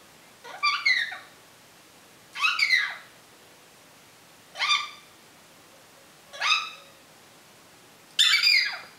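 African grey parrot calling: five loud, short calls about two seconds apart, each sweeping in pitch.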